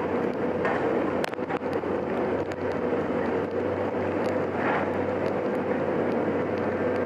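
A heavy machine's engine running steadily with a constant hum, and a few sharp knocks, the loudest about a second in.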